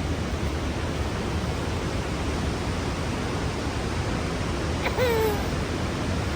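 Steady rushing of creek water far below a canyon suspension bridge, an even noise with no change in level. About five seconds in, a short high call that falls in pitch cuts briefly through it.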